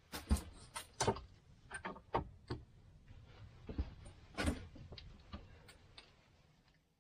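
Irregular knocks and clicks of objects being handled, about a dozen sharp ones, louder about half a second in and again near four and a half seconds, with a faint low hum between them.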